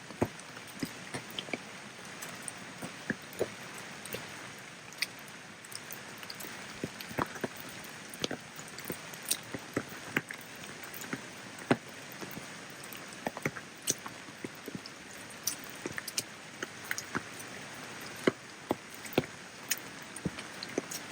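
Rain falling: a steady hiss with many sharp, irregular ticks of close drops striking a surface.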